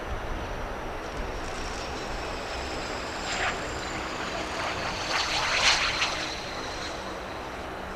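Aircraft engine noise with a faint steady high whine. The rush swells briefly about three and a half seconds in, then louder again between five and six seconds in.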